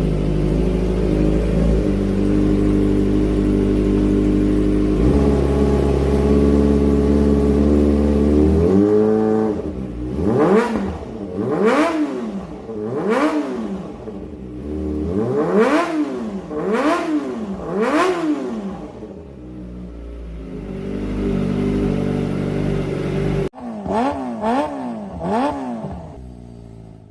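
Kawasaki ZX-25R's four-cylinder engine through an aftermarket racing exhaust, idling steadily and then blipped through about seven quick revs that climb and drop back. It settles to idle again, then after an abrupt break gives three more short blips.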